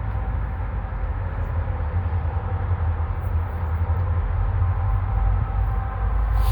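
Freight train running past with a steady low rumble.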